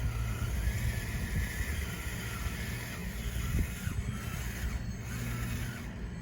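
Radio-controlled bulldozer running, its electric motors giving a wavering whine over a steady low rumble from the tracks and drive.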